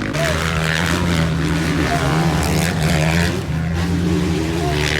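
Motocross motorcycle engines running at a steady pitch, with a brief dip about three and a half seconds in.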